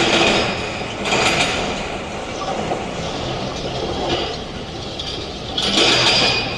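Heavy diesel machinery at work: an excavator loading a dump truck. A steady engine runs under three louder surges of rumbling and rattling: at the start, just over a second in, and near the end.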